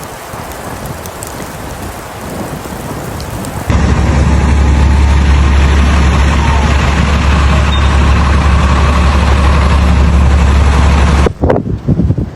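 Blizzard wind on the microphone: a few seconds of hissing wind-blown snow noise, then a sudden, very loud, steady rumble with hiss that cuts off abruptly near the end.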